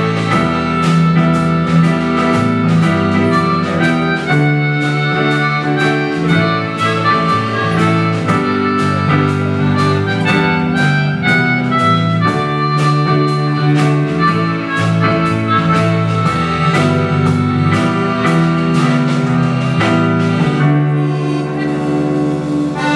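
Instrumental passage of a live folk song without singing: an accordion sustaining chords over a steady rhythm of short strokes, ending on a long held chord.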